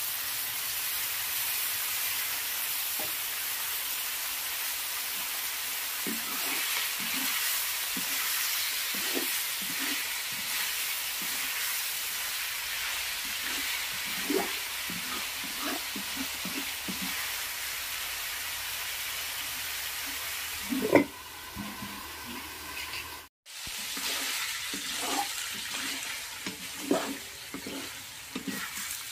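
Pork sizzling as it fries in an aluminium wok, a steady hiss, with a wooden spatula scraping and stirring against the pan in short strokes from about six seconds in. A single louder knock comes about two-thirds of the way through, and the sound drops out for an instant shortly after.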